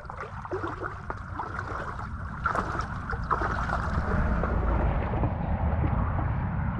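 Personal watercraft (jet ski) engine running with water rushing past, growing louder about two and a half seconds in.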